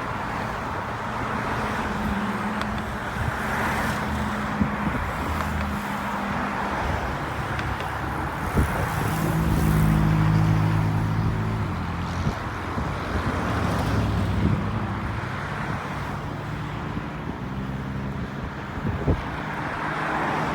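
Road traffic: cars running and passing, a steady rush of tyre and engine noise with low engine hum that swells and fades as vehicles go by.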